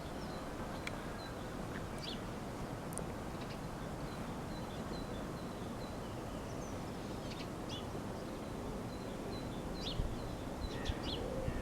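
Steady background hum with small birds chirping now and then, short high chirps scattered through it.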